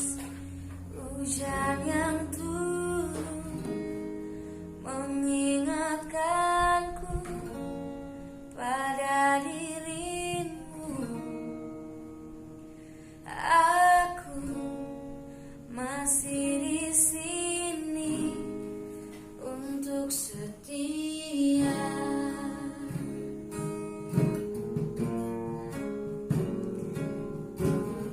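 A woman singing a song to strummed guitar accompaniment, in phrases with short pauses; about twenty-two seconds in the voice stops and the guitar plays on alone.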